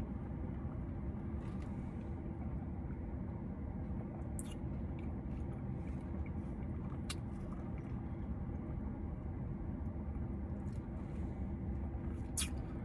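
Steady low rumble, the hum of a car's cabin, with a few faint short clicks.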